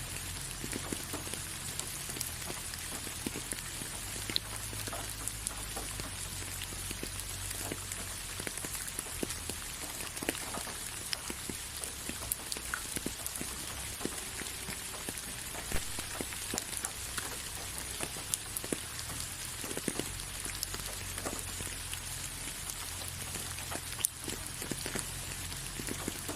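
Steady rain falling, with a constant hiss and many separate drops tapping close by.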